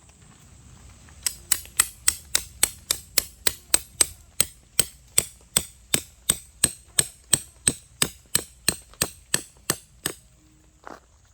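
A hammer striking about three times a second in a steady rhythm, around thirty sharp blows, stopping after about nine seconds.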